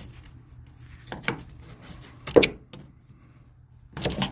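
A few scattered knocks and clatters of hand work on the RV's wooden crossmember and metal frame. The loudest knock comes about two and a half seconds in, with others near the start, after about a second and near the end.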